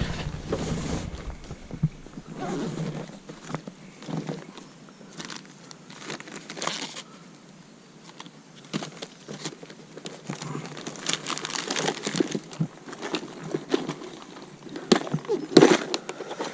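Hands rummaging through a cluttered plastic tackle box, with irregular clicks, rattles and crinkles of lures and bait packets; the loudest knocks come near the end.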